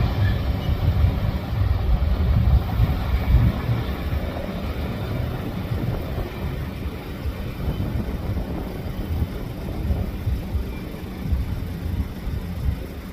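Freight train cars rolling along the rails, a low rumble that slowly fades as the tail end of the train moves away.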